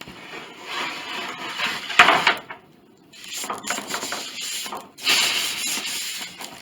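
Old wooden piano soundboard panels being shifted and slid against one another in a stacked pile, scraping and rubbing in three stretches, with a sharp wooden knock about two seconds in.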